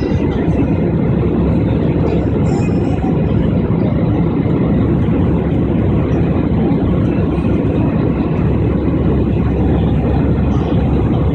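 Airliner engines and rushing air heard inside the passenger cabin during the climb after takeoff: a loud, steady, unchanging noise.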